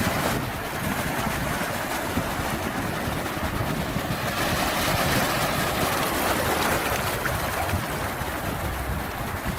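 Sea waves washing in, a steady rush of surf that swells about four to six seconds in.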